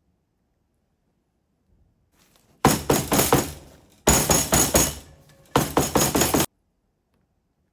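Three runs of quick, sharp clinking and knocking strikes from hard objects, each lasting about a second and starting and stopping abruptly.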